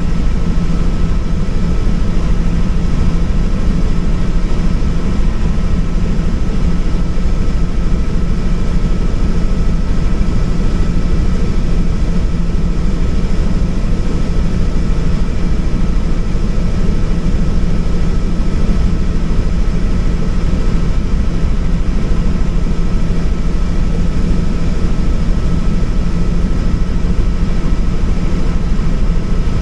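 Helicopter turbine and rotor noise heard from inside the cabin in flight: a steady loud drone with a thin, steady high whine over it.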